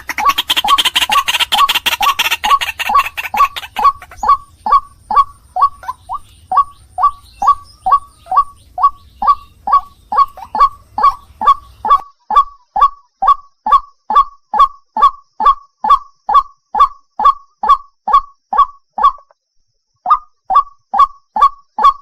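White-breasted waterhen (ruak-ruak) calling: a loud honking note repeated about two to three times a second, each note dropping in pitch, with a short break near the end. A harsher, rapid chattering call overlies it for the first few seconds.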